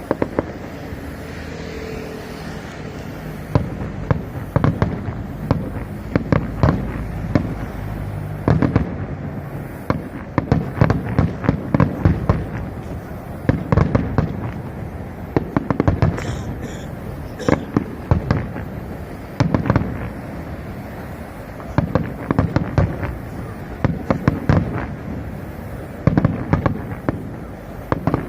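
Fireworks going off in rapid volleys of sharp bangs and crackles, over a low rumble, with a new cluster every second or two.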